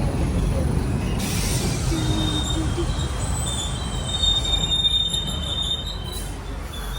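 A train rolling along the rails with a low rumble, its wheels squealing in thin high tones from about two seconds in until shortly before the end.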